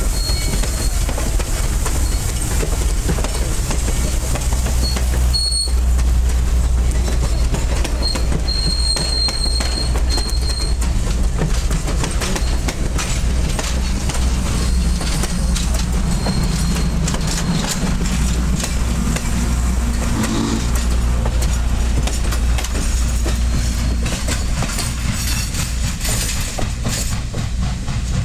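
Passenger train cars rolling past close by: a steady rumble of steel wheels on rail with clickety-clack over the rail joints, and brief high-pitched wheel squeals several times in the first ten seconds.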